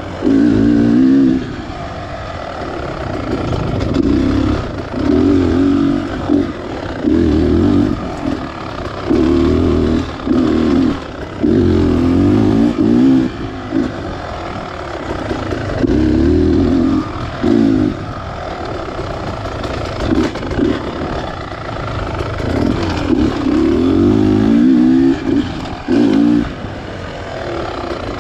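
Beta Xtrainer 300 two-stroke dirt bike engine, throttled on in repeated short bursts of a second or two and rolled off between them, as on a slow, technical trail.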